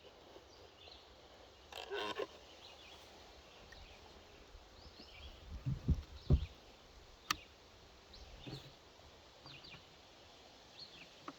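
Quiet outdoor ambience with faint, scattered bird chirps, a few low thumps around the middle and one sharp click a little later; the chainsaw is not running.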